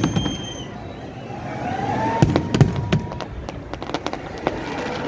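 Fireworks going off: several sharp bangs and cracks, clustered about two seconds in and again near the end, over a steady outdoor din.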